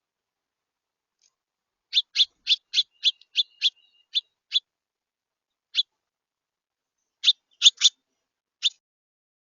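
A bird at the feeder calling with short, sharp chip notes: a quick run of about seven, then a few more, spaced out singly and in pairs.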